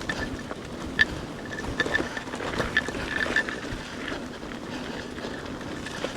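Electric mountain bike with a Bafang 1 kW motor being ridden over a rough trail: steady tyre and wind noise with scattered sharp knocks and rattles from the bike, the loudest about a second in. A thin high whine comes and goes throughout.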